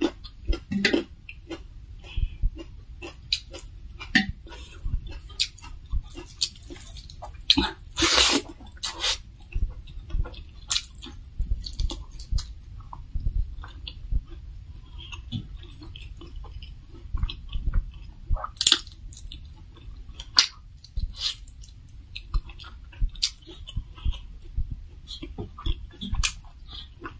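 Close-miked chewing and wet mouth clicks of a person eating rice, fried pork and dal by hand, with fingers gathering rice against a metal plate. The clicks come in irregular, quick runs, with a few louder bursts, the biggest about eight seconds in.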